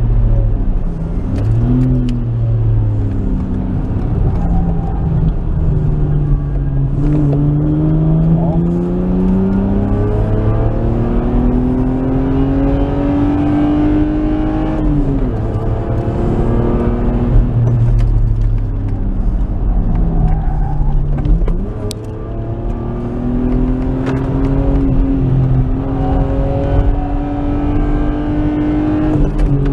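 Nissan Skyline R33's RB20E 2.0-litre straight-six engine under load on track, heard from inside the car: its note climbs steadily for several seconds, falls sharply about halfway through, dips again a few seconds later and then climbs once more. Constant low road and wind rumble underneath.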